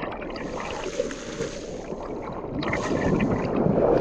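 Water rushing and splashing around someone standing in a flowing canal pool, with wind buffeting the microphone.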